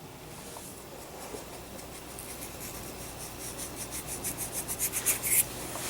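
Pepper grinder being twisted over raw chicken, making a run of quick rasping clicks that starts about two seconds in and stops shortly before the end.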